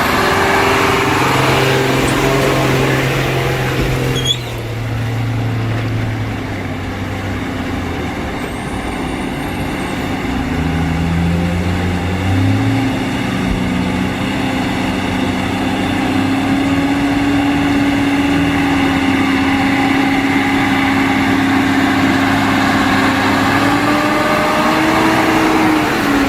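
Truck engine running, its pitch stepping and then climbing about ten to twelve seconds in as it revs up, then holding steady. A sharp click about four seconds in.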